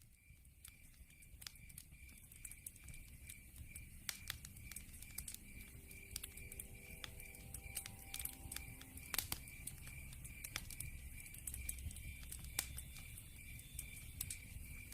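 Wood fire crackling, with sharp pops and a low rumble, swelling up over the first few seconds. Behind it, night insects keep up a steady, high, rapidly pulsing chirp.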